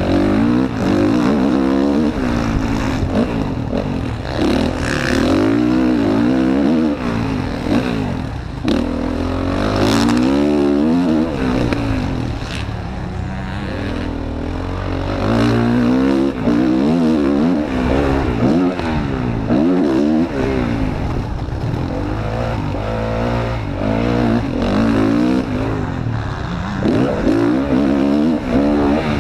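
Motocross bike engine revving hard and easing off again and again, its pitch climbing and dropping every second or two through gear changes and corners, heard close up from an onboard camera.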